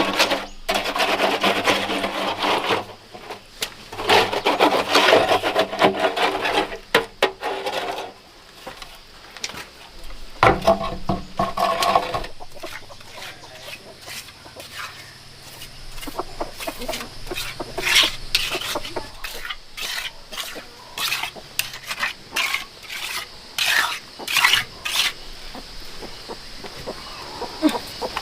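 Rough, repeated scraping and rubbing strokes for several seconds, then scattered knocks and clatter of hand work.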